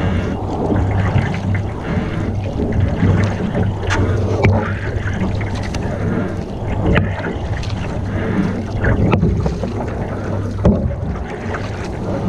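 Canoe on the water: steady water and wind noise with a low rumble on the microphone, and scattered sharp knocks every second or two, typical of a paddle against the canoe's hull.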